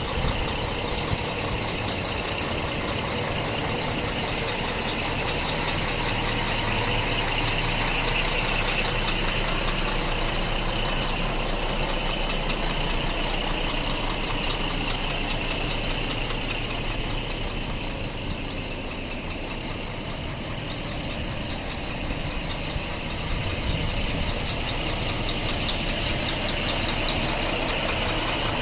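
Scania G420 truck's diesel engine idling steadily, with a single faint click about nine seconds in.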